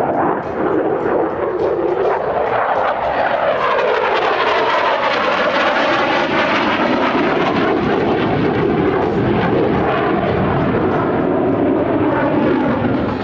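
F-16 fighter jet's engine running loud as it flies past, with sweeping shifts in pitch as it goes by.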